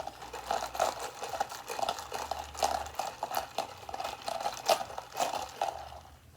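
Ice rattling and clicking in a McDonald's iced coffee cup as it is mixed to spread the sweetener, a quick continuous clatter that stops about six seconds in.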